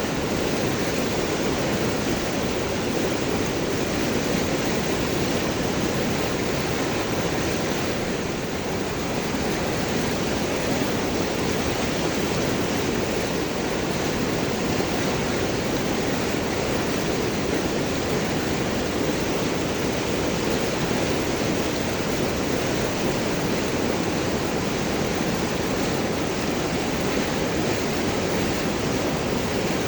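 River water rushing and gurgling over large rocks: a steady, full rushing noise.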